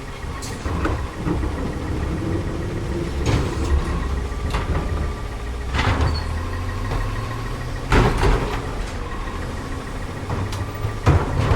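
CCC LET2 garbage truck's engine running at idle, with a string of irregular bangs and knocks from the collection work, the loudest about eight seconds in.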